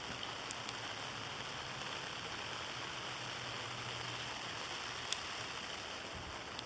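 Steady rain falling: an even hiss of precipitation, with a few faint sharp ticks.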